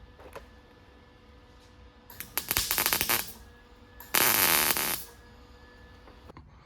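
MIG welder crackling in two short bursts of about a second each, tacking a new piece of sheet metal in place: the first a rapid crackle, the second a steadier hiss.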